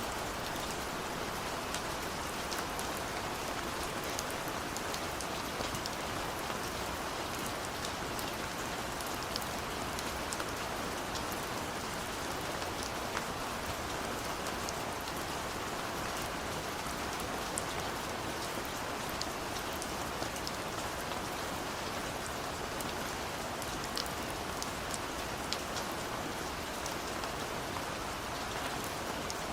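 Steady rainfall, an even hiss with many individual drops ticking on a hard surface.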